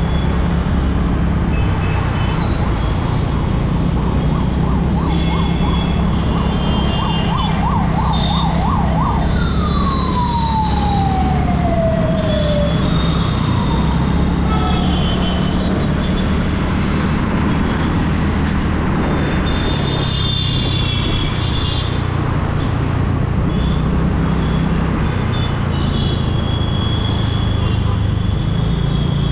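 Emergency vehicle siren in city traffic: about five seconds in it yelps rapidly up and down, then a long tone falls in pitch, followed by a fainter falling tone. Steady rumble of road traffic and the moving scooter underneath, with scattered short high toots.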